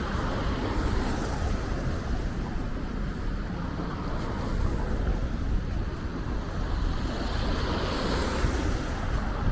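Wind buffeting the microphone of a camera riding along on a moving bicycle, a steady rushing rumble, over the hum of city street traffic.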